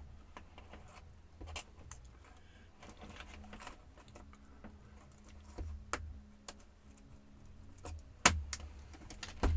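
Plastic clicks and taps of a laptop's case and keyboard being handled and pried by hand, with one sharper click about eight seconds in.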